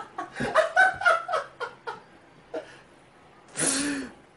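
Laughter in quick, even ha-ha pulses that die away about two seconds in. A short breathy burst follows near the end.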